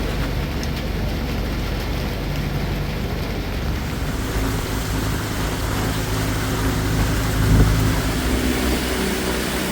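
Engine of a river boat running steadily under way, with a constant rush of water, wind or rain noise over it. It swells briefly louder about three-quarters of the way through.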